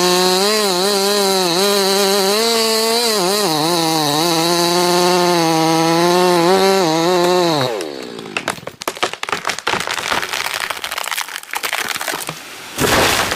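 Chainsaw running at high revs, cutting into a tree trunk, its pitch dipping slightly under load, until it cuts off about eight seconds in. Irregular clicks and knocks follow, with a short loud noise near the end.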